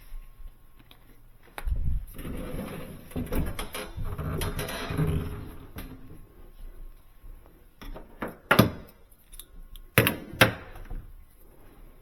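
A Sub-Zero built-in refrigerator door being swung and handled during hinge work, with a stretch of rumbling movement and then a few sharp knocks in the second half.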